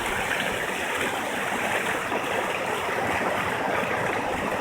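River water rushing steadily over a drop, an even loud rush with no breaks.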